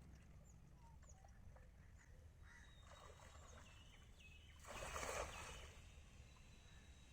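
Quiet outdoor ambience: a faint low rumble with scattered short bird chirps, and a brief rush of noise about five seconds in.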